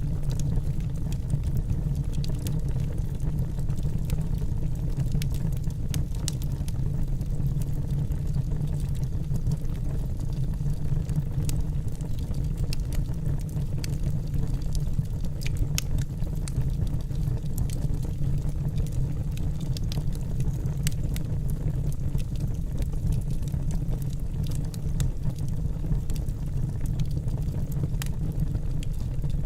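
Wood fire burning in a fireplace: a steady low rumble of the flames with irregular, scattered sharp crackles and pops from the burning logs.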